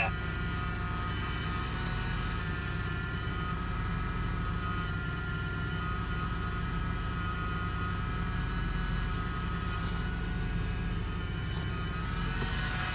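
Old vehicle's engine idling steadily, still cold shortly after a cold start.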